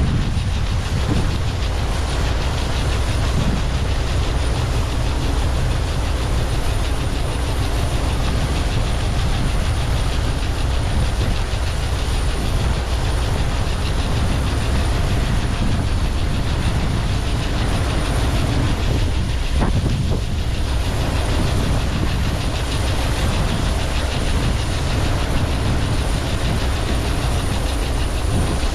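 Heavy diesel farm machinery running steadily: a loud, unbroken low rumble with a faint high whine above it.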